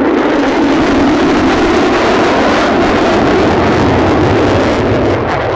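Lockheed Martin F-35A Lightning II fighter's single afterburning turbofan engine giving a loud, steady jet roar during its flying display.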